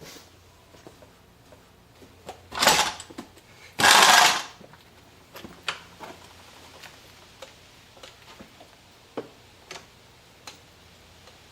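Small clicks and knocks of hand work on a dirt bike, with two loud, short noisy bursts about two and a half and four seconds in; the engine is not running.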